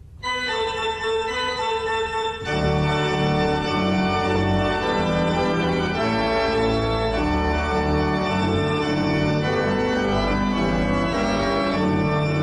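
Organ music playing sustained chords, with a low bass part coming in about two seconds in.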